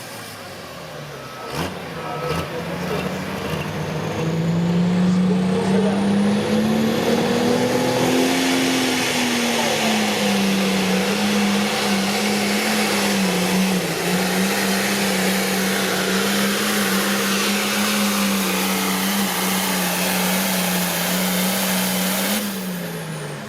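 Light limited super stock pulling tractor making a full-throttle pass: the engine runs up about two seconds in, with a rising whistle above it, and holds a steady high pitch through the pull. It drops in pitch near the end as the throttle comes off.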